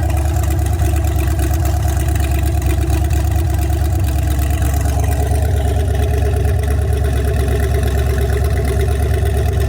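Marine Chevrolet 5.7-litre V8 running steadily with no change in speed. Its ignition coil is fed by a jumper lead instead of the key switch.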